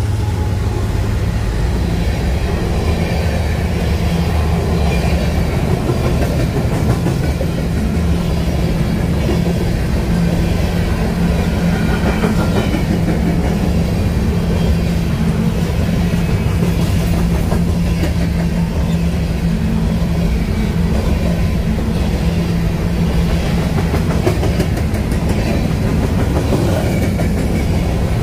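Covered hopper cars of a BNSF grain train rolling past close by at speed: a steady, loud rumble and clatter of steel wheels on rail.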